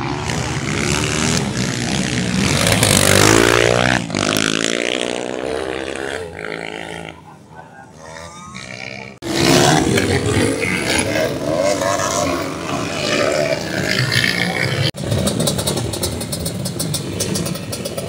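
Motocross dirt bike engines revving hard and passing by, their pitch sweeping up and down as the riders accelerate and shift. The sound changes abruptly a few times.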